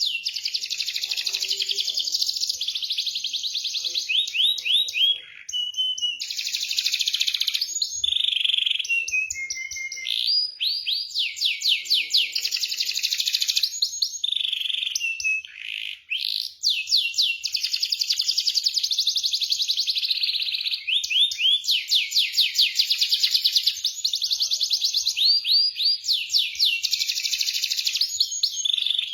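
Domestic canary singing a loud, nearly continuous song of fast rolling trills: strings of rapidly repeated high notes and sweeping phrases, with a couple of short breaks. This is a lure song of the kind played to coax a silent canary into singing.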